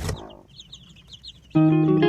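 Chicks peeping in short, high, rapid cheeps after a sharp knock at the start. About one and a half seconds in, loud guitar music comes in over them.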